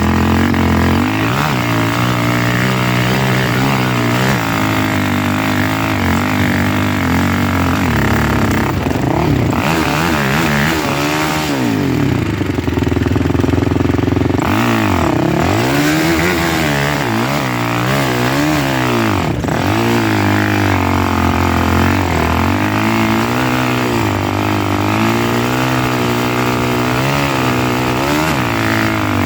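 A vehicle engine running under way, its pitch rising and falling again and again as it speeds up and slows down.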